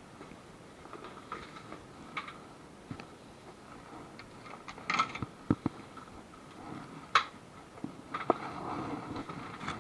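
Scattered clinks and knocks of tools and metal parts being handled, with sharper ones about five seconds in and just past seven seconds.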